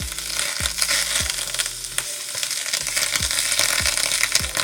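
Grilled cheese sandwiches frying in melted butter in a pan, a steady sizzle with many small crackles and pops.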